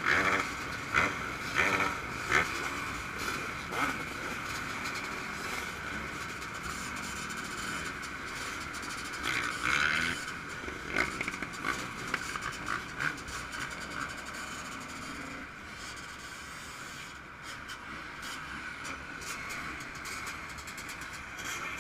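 Yamaha YZ125 two-stroke motocross engine running hard at high revs, a steady high-pitched drone, with sharp knocks and thumps mostly in the first few seconds and again about ten seconds in.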